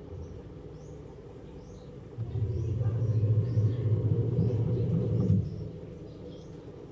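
Samsung automatic washing machine motor running in one burst of about three seconds: a low hum that starts and cuts off abruptly. Small birds chirp throughout.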